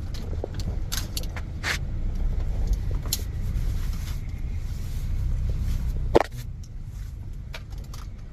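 Low, steady rumble of a car moving slowly, heard from inside the cabin, with scattered light clicks. A sharp click comes about six seconds in, and after it the rumble mostly drops away.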